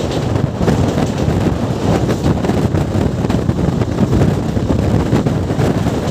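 Passenger train running at speed, heard from an open door: a steady rumble of wheels on the rails mixed with wind buffeting the microphone.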